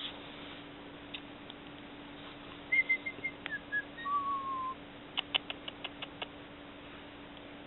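Hawk-headed parrot giving a few short, high whistled chirps and then a brief whistle that falls slightly in pitch. This is followed by a quick run of about seven sharp clicks.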